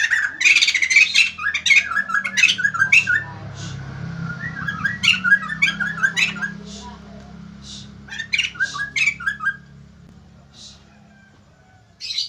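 White-crested laughingthrush (poksay jambul) giving loud bursts of rapid, sharp chattering calls in three bouts with short pauses between them, and one short call near the end. A steady low hum runs underneath.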